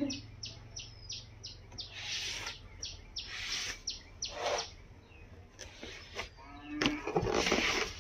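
A bird chirping repeatedly with short high chirps, about three a second at first, then more sparsely. Several short bursts of rustling are mixed in.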